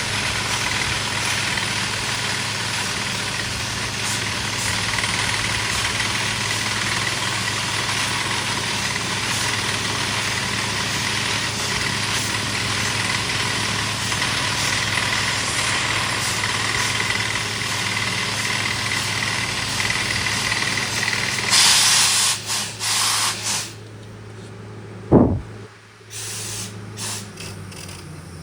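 Borewell drilling rig's engine running steadily under a layer of air hiss. About three quarters of the way through, a loud burst of air hiss comes, the running sound drops away, and a single sharp thud follows a few seconds later.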